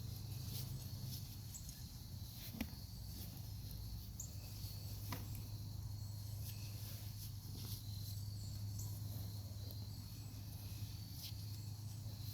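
Crickets trilling steadily over a low steady hum, with three faint clicks as hands work soil and roots in a grow bag.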